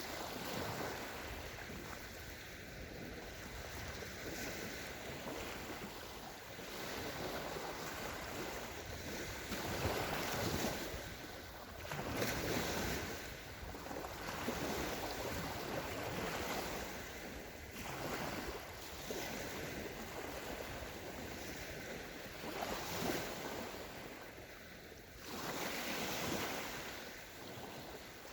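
Small sea waves breaking and washing up a sandy shore, swelling and falling every few seconds, with some wind noise on the microphone.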